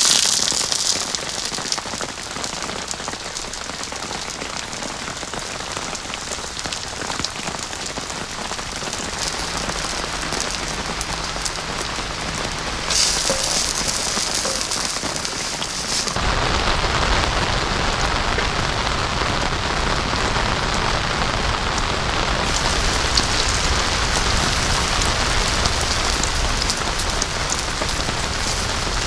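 Heavy rain falling steadily. Its sound changes abruptly about halfway through, turning fuller and deeper.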